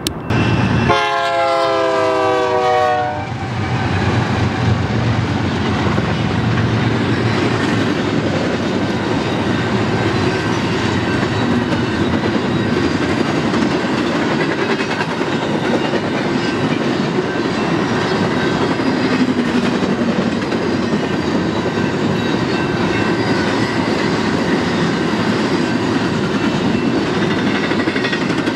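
A locomotive air horn sounds for about two seconds, its chord sliding down in pitch, then cuts off. A double-stack intermodal freight train then rolls past with steady wheel and rail noise and clickety-clack over the joints.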